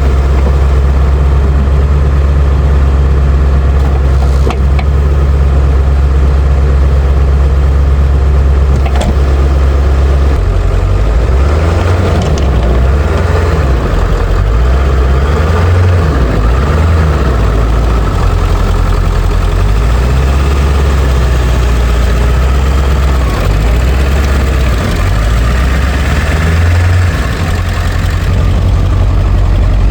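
2001 Ford F-250's 7.3-litre Power Stroke V8 turbo-diesel running steadily at first. From about ten seconds in its speed rises and falls again and again as the plow truck works the snow.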